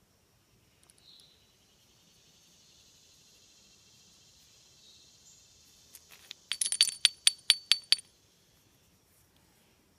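A quick run of about ten sharp, ringing clinks of hard objects knocking together, near the end, over a faint steady high insect drone.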